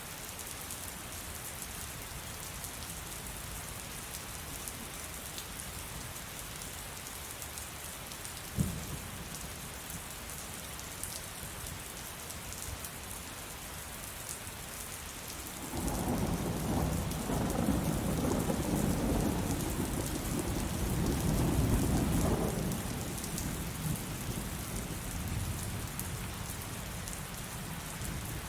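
Steady heavy rain falling, with one sharp crack about a third of the way in. About halfway through, a loud rumble of thunder rolls in, lasts several seconds and dies away under the rain.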